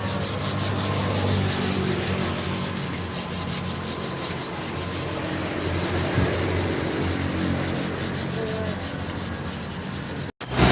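Rusted motorcycle metal being scrubbed by hand in fast, rhythmic rubbing strokes.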